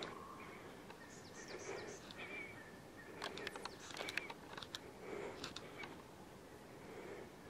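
Faint forest ambience with a few short, high small-bird chirps about a second in. From about three seconds in comes a run of sharp clicks, typical of handling a compact camera.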